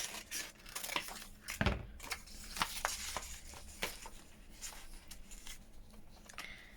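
Scissors cutting roughly around a paper picture: irregular snips mixed with paper rustling and handling, with one louder knock a little under two seconds in.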